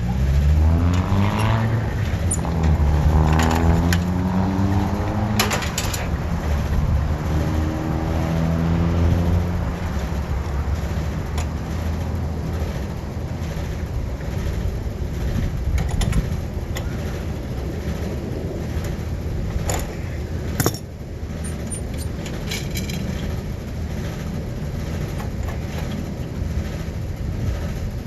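A road vehicle accelerating through several gears, its engine pitch rising and dropping back at each shift, then running steadily with low road rumble and a few sharp clicks.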